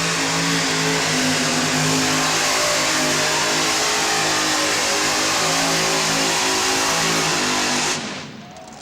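Modified pulling tractor's engines running loud at full power during a pull, holding a steady pitch, then cutting off abruptly near the end.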